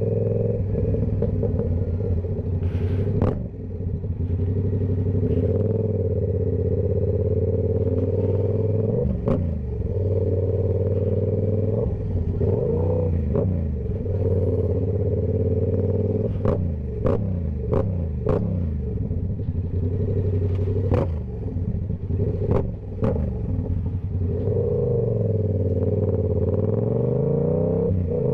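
Yamaha YZF-R7's 689 cc parallel-twin running through a TOCE full exhaust system, its pitch repeatedly rising under throttle and falling back between gears. Several sharp cracks sound along the way, bunched together about two-thirds of the way through.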